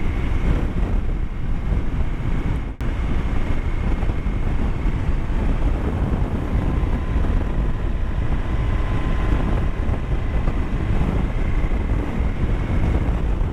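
Wind buffeting the microphone of a motorcycle-mounted action camera while riding, with steady engine and road noise underneath and a faint steady whine. The sound drops out for a moment about three seconds in.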